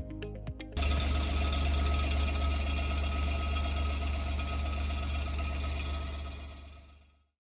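Suzuki Wagon R (MH23S) 660 cc three-cylinder engine idling with a steady low hum. It cuts in suddenly just under a second in and fades out near the end.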